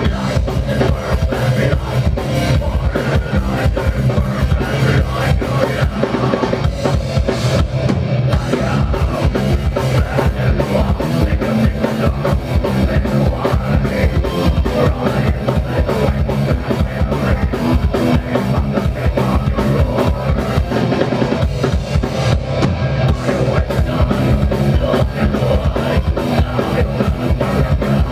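Metal band playing live: fast, dense drum kit with bass drum and snare under distorted guitars and bass.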